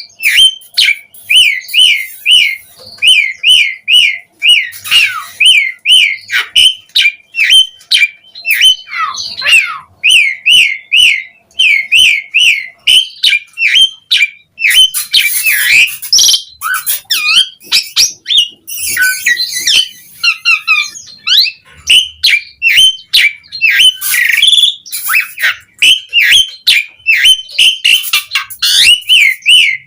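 Asian pied starling (jalak suren) singing: fast runs of short whistled notes repeated several times a second, broken by harsh, scratchy calls about halfway and again near the end.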